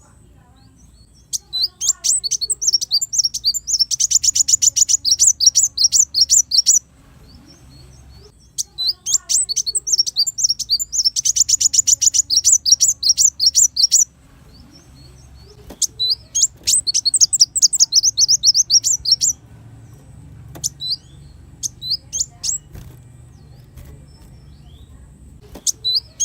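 Kolibri wulung sunbird singing: high, rapid trilled song phrases of a few seconds each, repeated after short pauses.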